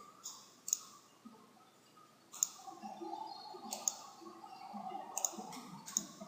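Computer mouse clicking, about half a dozen separate sharp clicks spread irregularly over a few seconds.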